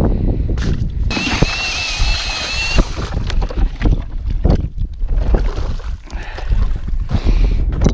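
Wind buffeting a hat-mounted camera microphone, with a run of short knocks and crunches. A thin high squeal lasts under two seconds, starting about a second in.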